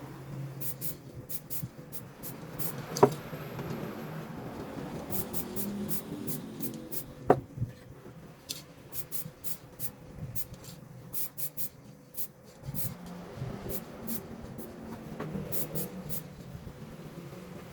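Hand work at a bench: continuous rubbing and scraping with scattered light ticks, and two sharp clicks, about three and seven seconds in. A faint steady hum runs underneath.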